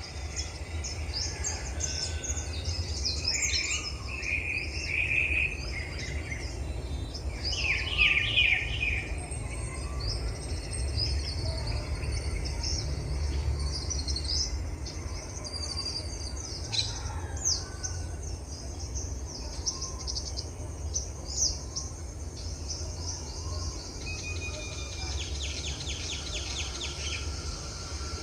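Several wild birds chirping and singing in overlapping short phrases, with a fast trill of rapidly repeated notes near the end, over a steady low rumble.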